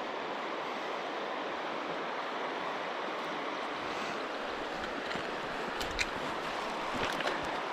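Steady rush of river current flowing past, with a few sharp clicks and knocks near the end.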